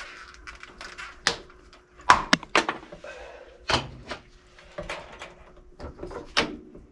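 Irregular knocks and clicks, about nine in all with the loudest cluster a couple of seconds in, as a trimmed part is handled and pressed into place by hand, over a faint steady hum.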